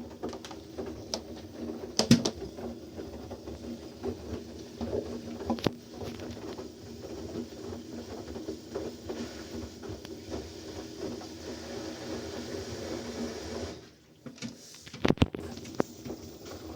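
Washing machine running: a steady motor hum with occasional sharp knocks, briefly cutting out about 14 seconds in before the noise resumes.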